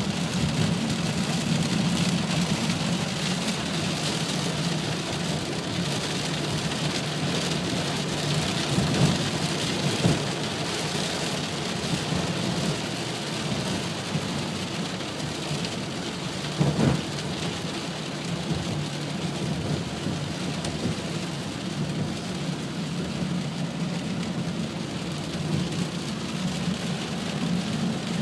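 Heavy rain pouring steadily, with a few brief louder moments in the middle.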